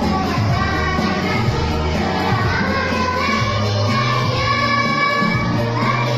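A choir singing, many voices together holding long notes that change pitch every second or so, over a steady low accompaniment.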